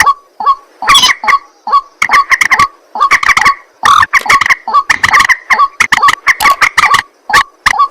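White-breasted waterhens calling: fast runs of loud, harsh, repeated notes, broken by short pauses.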